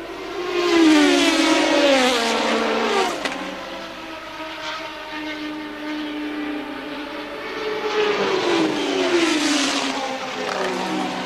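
Formula One racing cars going past at speed, their engine notes falling in pitch as each goes by: a loud pass about a second in and another about eight seconds in, with engines droning steadily between them.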